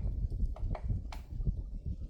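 Woodpecker pecking at tree wood: separate sharp taps at an uneven pace, three or four in two seconds, the loudest a little after one second in, over a steady low rumble.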